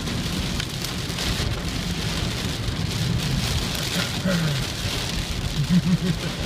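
Heavy rain falling steadily in a thunderstorm, with a low rumble underneath.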